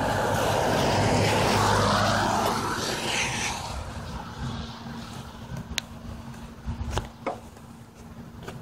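A truck drives past through deep floodwater. The rush of its wheels through the water swells over the first three seconds and then fades away, over a steady low engine hum.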